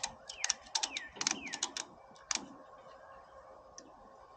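Ratchet tie-down strap being cranked tight: quick runs of ratchet clicks, each stroke with a short falling squeak, stopping about two seconds in, then a couple of single clicks.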